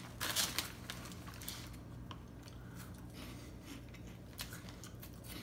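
A person chewing crunchy popcorn puffs, with faint crunches throughout. A brief rustle of the snack bag comes near the start as a hand reaches into it.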